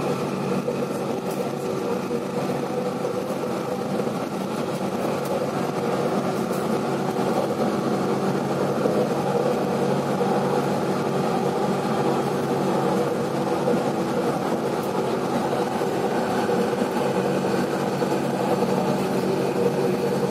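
Light rail train running on an elevated track, heard inside the car: a steady hum with several held tones over a rumbling haze, getting slightly louder a few seconds in.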